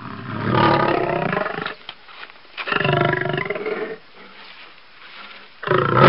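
Lion roaring: three drawn-out calls, the third, near the end, the loudest.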